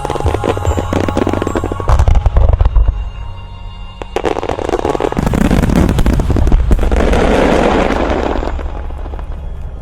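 Aerial fireworks display: rapid crackling bangs and bursts from many shells over a low rumble, swelling about halfway in into a dense, sustained wash of crackle that fades near the end, with music playing underneath.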